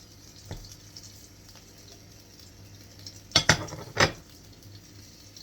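A serving utensil clinking against a plate and dish while roasted potatoes are dished out: a faint knock about half a second in, then three sharp clinks in quick succession about three to four seconds in.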